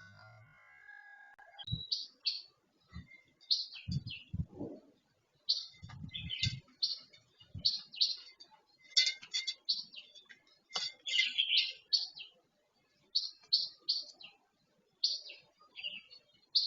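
Red-whiskered bulbul giving short chirping calls in quick groups of two to four, repeated throughout. Soft low thuds come among the calls in the first half.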